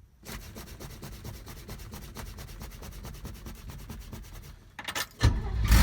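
1965 Chevrolet C10's inline-six engine being cranked by its starter: a fast, even chugging of about ten beats a second for roughly four and a half seconds. It stops briefly, then the engine catches near the end and starts running loudly.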